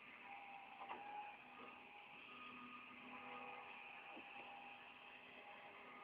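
Near silence: a faint steady hum with a small click about a second in.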